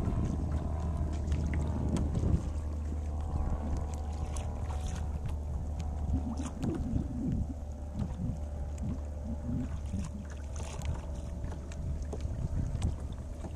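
Wind buffeting the microphone on open water from a kayak, over a steady low hum and a faint steady drone that fades about halfway through.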